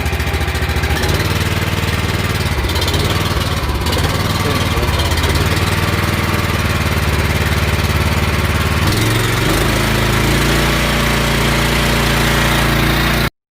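Small gasoline engine of a Hotsy pressure washer running steadily just after a choke start. Its note changes about nine seconds in, and the sound cuts off suddenly near the end.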